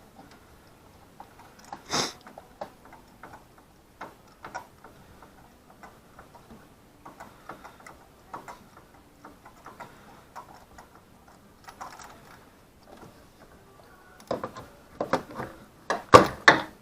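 Socket-wrench ratchet clicking in slow, irregular ticks as a spark plug is turned out. A few louder knocks and clanks follow near the end.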